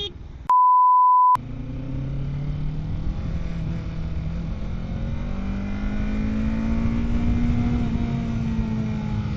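A one-second pure-tone censor bleep about half a second in, with the rest of the sound cut out under it. Then the motorcycle's engine runs under wind noise, its pitch rising slowly as it accelerates and easing off near the end.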